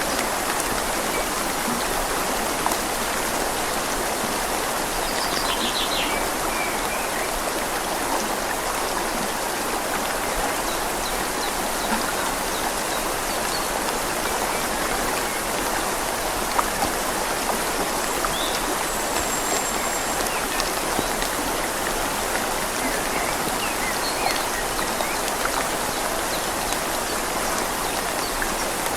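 Steady rain falling on leaves over the flow of a river, an even rushing hiss that doesn't change. A few faint high chirps show through it, about five seconds in and again past the middle.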